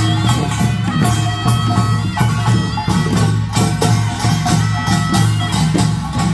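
Korean nongak farmers' band music: gongs and drums beating a fast, dense rhythm under a reedy, held wind melody, typical of a taepyeongso shawm.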